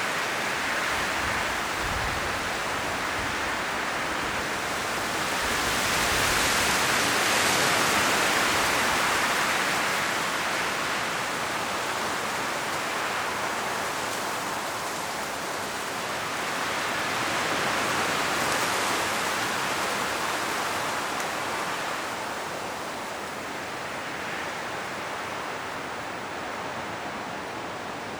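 Strong wind gusting through autumn forest trees, the leaves rustling, swelling and easing in slow gusts, strongest about a quarter of the way in and again past the middle, then easing off near the end.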